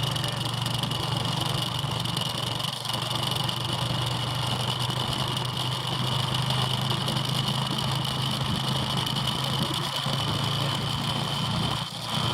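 Motorbike engine running at a steady speed: a constant low drone with a thin, steady high whine above it.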